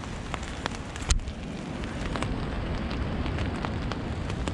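Raindrops hitting a tarp as scattered ticks, over a steady low rumble of wind gusting on the microphone. One sharp, louder tap comes about a second in.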